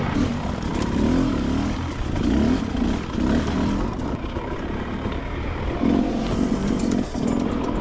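Beta 300RR two-stroke dirt bike engine revving in repeated throttle bursts, its pitch rising and falling as it is ridden over rough trail, with some clattering near the end.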